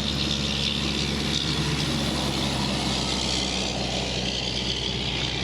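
Steady rush of highway traffic: tyre and engine noise from passing vehicles, without a break.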